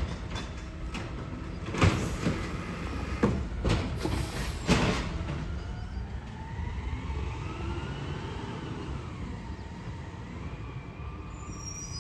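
Garbage truck working: several sharp metal clangs in the first few seconds, then a whine that rises and falls in pitch.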